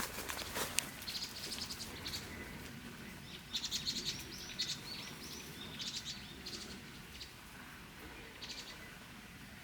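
Wild songbird giving short bursts of rapid, high chirps, about one cluster a second, thinning out toward the end.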